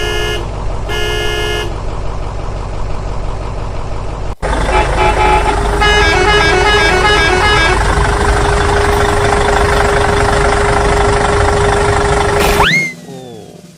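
Vehicle sounds: two horn toots, then a steady engine rumble that jumps louder about four seconds in and carries a steady hum, with a short run of beeping notes in the middle. Near the end the engine cuts off under a quick rising-and-falling whistle.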